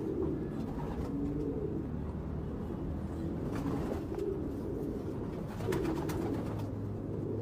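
Racing pigeons cooing in a loft: low coos repeating and overlapping, with a few brief clicks among them.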